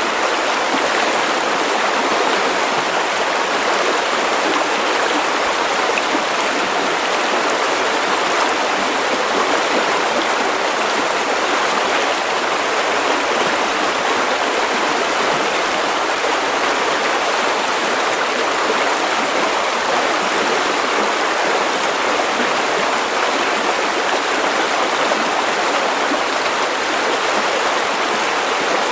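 River water running over stones, a steady, even rushing and babbling.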